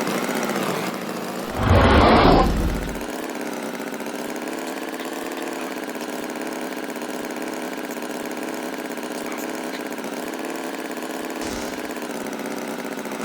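An engine idling steadily, with a louder rushing burst about two seconds in that lasts about a second and a half.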